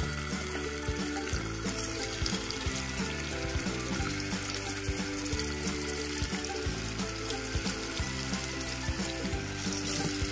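Spice-marinated jackfruit core pieces sizzling in hot oil as they are laid into the pan one after another for shallow frying. Background music plays along with the sizzle.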